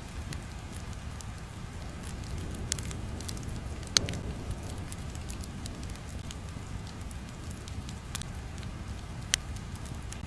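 Crackling fire ambience: a steady low rumble with irregular sharp pops, the loudest about four seconds in.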